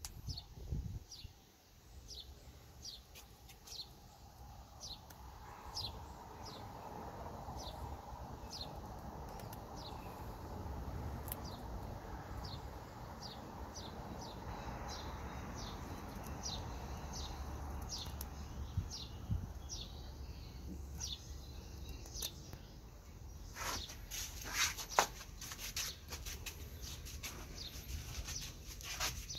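A small bird chirping over and over, one short falling note a bit more than once a second. Near the end come a few sharp scraping clicks from a pocket knife working the wood and bark of a graft.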